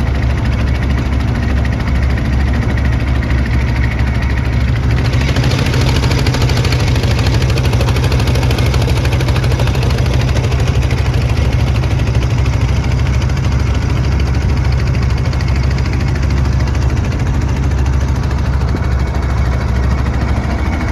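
Motorboat engine running steadily with a deep drone. A rush of water and wind grows louder about five seconds in.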